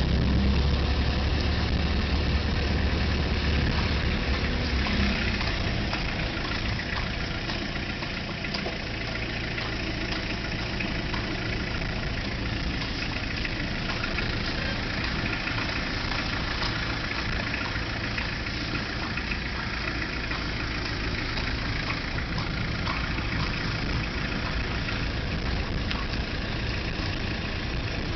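Car engine running at a crawl, heard from inside the car's cabin: a steady low hum, louder for the first five seconds or so.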